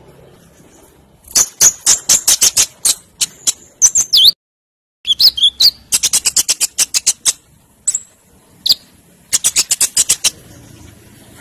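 Brown-throated sunbird (konin) singing loudly, in three spells of fast, sharp, metallic high chips at several a second, with a few short whistled slurs among them.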